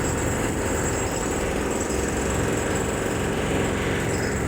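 Workshop machinery running steadily with a fast, dense rattling pulse and a thin high whine over it.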